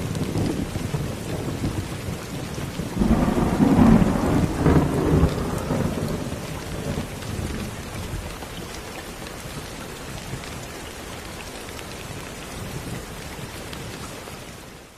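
Steady rain with a roll of thunder: about three seconds in the thunder swells into a deep rumble, then dies away over several seconds, leaving the rain. The rain fades out at the very end.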